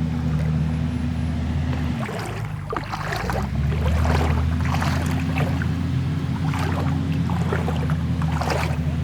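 A backhoe loader's diesel engine running steadily, its note dropping about two seconds in and picking back up a second later, while water splashes and sloshes irregularly around the machine in the river.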